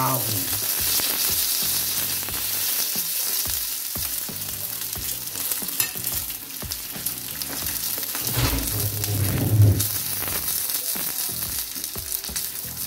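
Queen scallops in their half shells, topped with garlic-parsley butter sauce, sizzling steadily on a hot griddle plate. There is a brief low hum at about eight to ten seconds in.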